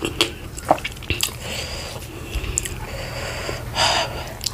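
Close-miked eating sounds from someone eating garri fufu and vegetable soup by hand: wet chewing with scattered small mouth clicks, and a short noisy breath through the nose near the end.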